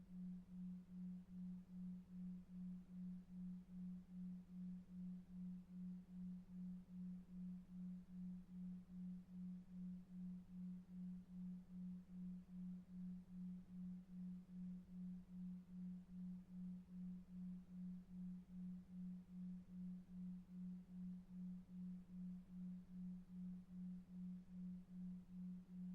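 Steady low electronic sine tone pulsing evenly about two and a half times a second, a delta-wave sleep tone at 2.5 Hz, over faint low brown noise.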